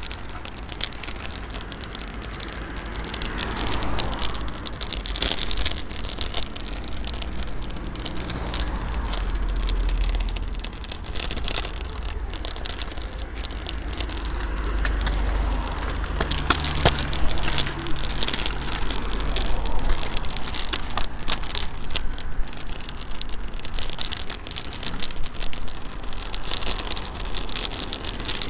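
Kick scooters' small hard wheels rolling over rough asphalt pavement: a steady rolling rattle full of tiny clicks, with a low rumble underneath.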